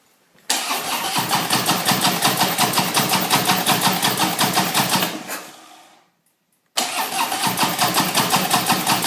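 Harley-Davidson V-twin cranked by its electric starter in two long, evenly pulsing bursts, the first about five seconds and the second about three, never catching. It cranks but won't start, with raw, unburned gas coming out of it.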